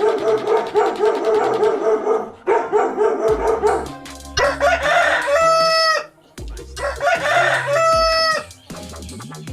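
Chickens: rapid pulsing clucks for the first few seconds, then a rooster crows twice, each crow ending on a long held note.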